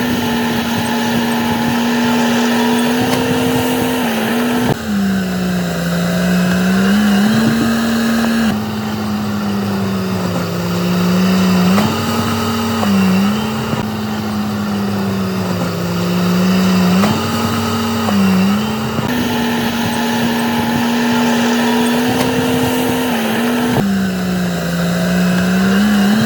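Shantui D95 bulldozer's diesel engine running under load while it pushes material, its pitch sagging and recovering again and again. The sound shifts abruptly several times.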